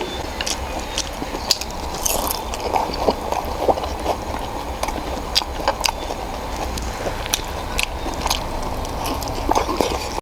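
Close-miked eating of ramen noodles: chewing and biting, with irregular sharp clicks throughout over a steady low hum.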